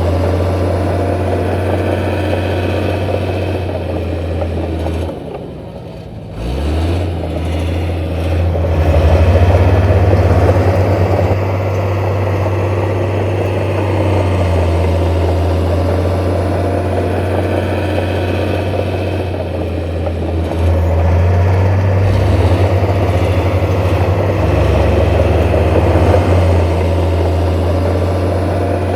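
Heavy diesel construction machine engine running steadily. It eases off about five seconds in, then picks up again with a rising pitch about a second later, and shifts speed again near the twenty-second mark.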